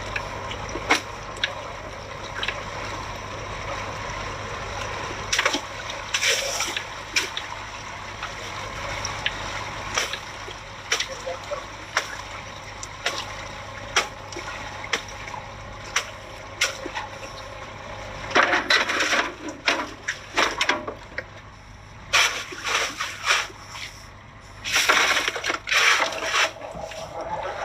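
Water splashing and sloshing with irregular knocks and clatters, in louder spells near the end, over a steady low hum.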